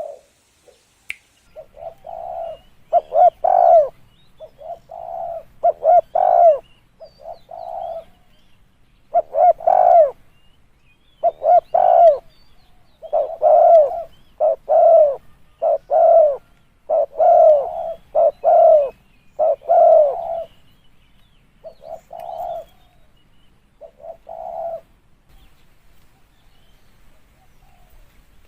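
Spotted dove cooing: phrase after phrase of low, repeated coos with short pauses between them, falling quiet for the last few seconds.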